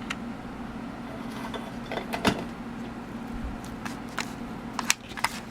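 Scattered light clicks and taps of small craft pieces being handled and set down on a work surface, with one sharper knock a little over two seconds in, over a steady low hum.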